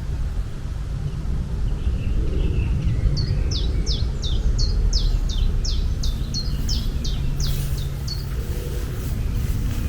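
A bird singing a run of about fourteen short, quick notes, each falling in pitch, starting about three seconds in and stopping a second or so before the end, over a steady low rumble.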